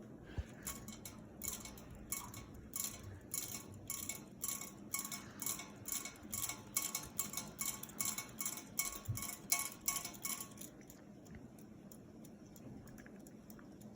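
Harbor Breeze Calera all-weather ceiling fan running on low speed, with a light metallic clinking about two to three times a second that stops about ten seconds in.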